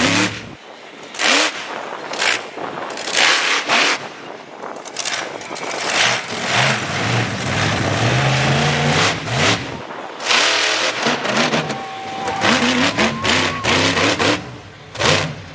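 Monster truck engine revving hard again and again, the pitch climbing and dropping, with a loud crack every second or so over heavy engine noise.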